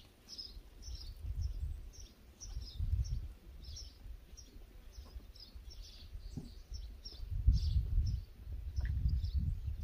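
Small birds chirping over and over, two or three short chirps a second, over a low rumbling noise that swells and is loudest about three-quarters of the way through.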